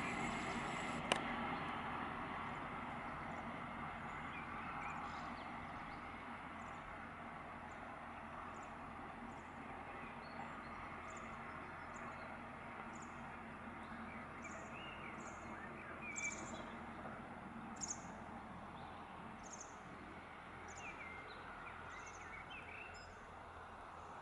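Small birds chirping in short, repeated high calls over a faint outdoor background, while the low noise of a train moving away fades over the first several seconds. A single sharp click about a second in.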